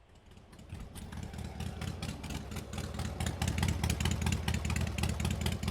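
Motorcycle engine running with a fast, uneven exhaust beat, fading in and growing steadily louder over the first three seconds.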